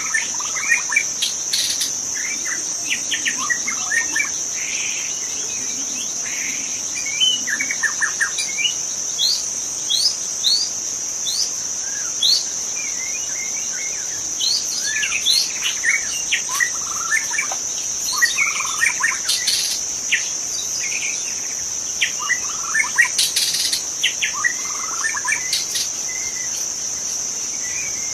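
White-rumped shama singing in the wild: a run of short, varied whistled notes and quick upward-sweeping phrases, over a steady high-pitched insect drone.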